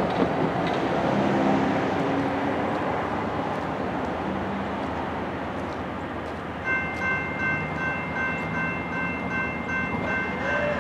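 A distant freight train approaching under a steady hiss. About seven seconds in, a high, steady warning tone starts abruptly and holds, with parts of it pulsing about three times a second.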